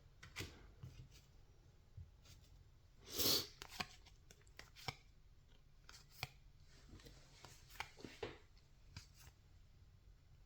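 2024 Topps Series 2 baseball cards being handled and slid one behind another as a pack is flipped through: faint soft swishes and light clicks at irregular intervals, the loudest swish about three seconds in.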